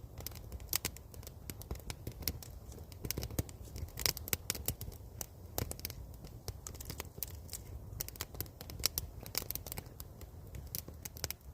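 Wood campfire crackling and popping: many sharp irregular cracks over a low steady rumble.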